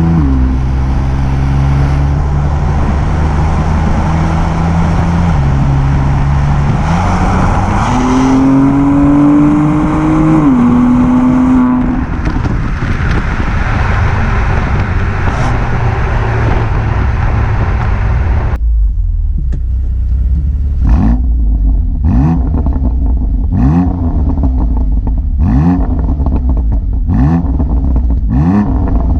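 BMW M2 Competition's twin-turbo straight-six, heard through its stock exhaust with a particulate filter, running at steady revs that step up and down and are held higher for a few seconds near the middle. From about two-thirds through come repeated short throttle blips, each a quick rise in pitch, about one every one and a half seconds.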